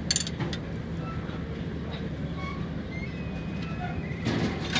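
Workshop background: a steady low mechanical hum, with a sharp metal clink at the start and another knock near the end, typical of tools on engine parts.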